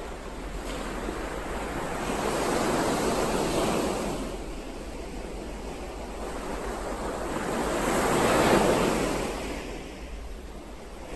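Ocean waves: two swells of surf that rise and fall away, the second louder and peaking about eight seconds in.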